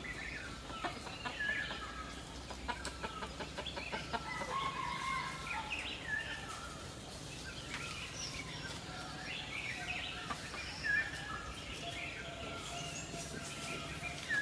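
Several birds chirping and calling, with many short overlapping notes scattered throughout.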